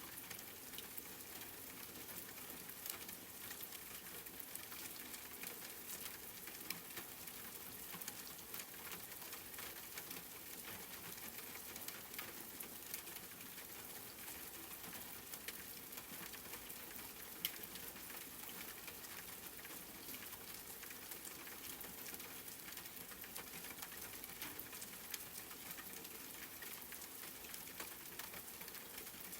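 Steady, fairly faint rain: a continuous hiss dotted with many small drop ticks, without any thunder or wind.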